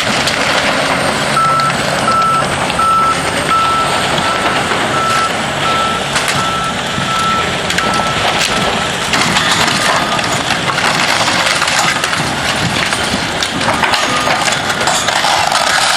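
Backup alarm on a demolition machine beeping, one steady tone about two to three times a second, stopping about nine seconds in. Underneath runs a constant noisy clatter of machinery working on the building.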